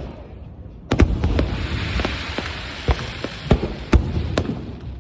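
Aerial fireworks exploding: a loud bang about a second in, followed by a crackling hiss and several more sharp bangs.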